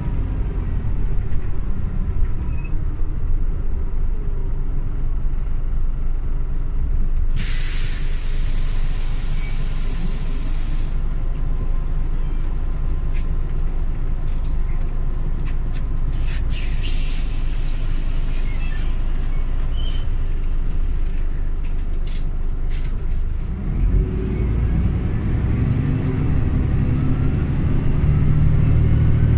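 Scania OmniLink city bus running at low engine speed, with a loud hiss of released air lasting about four seconds around seven seconds in and a second, shorter air hiss with a few clicks around sixteen seconds. Near the end the engine note rises and grows louder as the bus pulls away.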